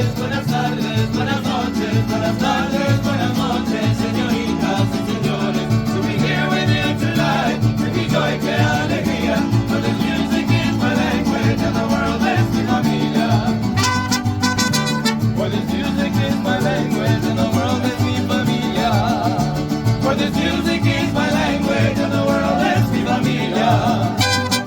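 Mariachi band playing an upbeat Latin piece, with a bass line stepping back and forth between notes under the melody.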